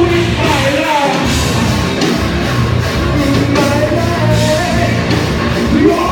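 Live rock band playing a song with a singer's voice over the band.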